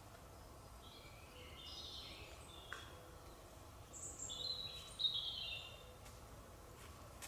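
A songbird singing quietly in two runs of short, high chirping phrases, over faint forest background.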